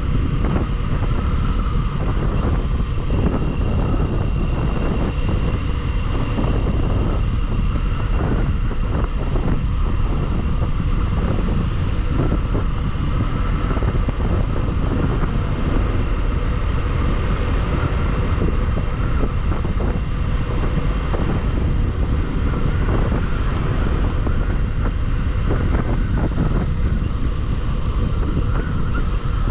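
Bajaj Pulsar motorcycle riding at steady speed: heavy wind rumbling over the microphone with the engine running underneath.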